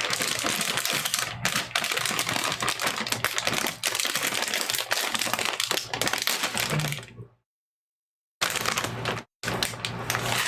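Crinkly plastic snack bag of sweet potato chips being handled and opened: a dense crackling rustle that cuts off abruptly about seven seconds in, then two shorter bursts of crinkling separated by dead silence.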